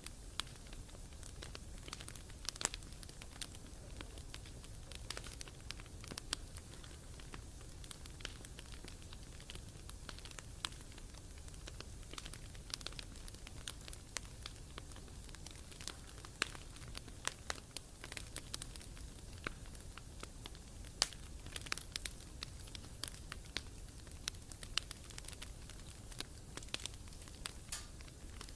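Wood fire crackling, with frequent sharp, irregular pops and snaps over a low steady rumble.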